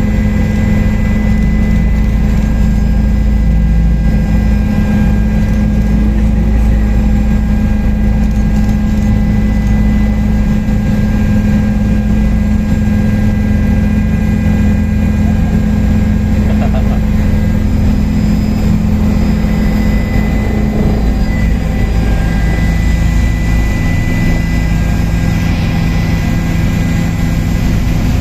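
Helicopter engine and rotor running steadily, a loud, even drone with a constant low hum.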